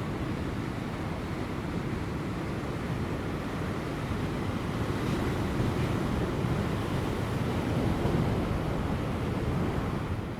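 Large ocean waves breaking on offshore rocks: a continuous rush of surf that swells louder from about halfway through and eases again near the end. Light wind blows across the microphone.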